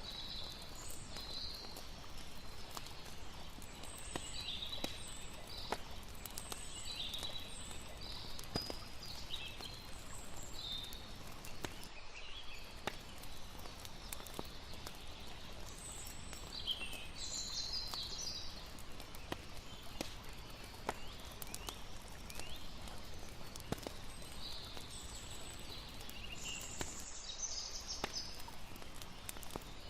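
Layered night ambience: a campfire crackling with scattered sharp pops, and high chirping calls of crickets and other night creatures coming and going, over a steady bed of water noise.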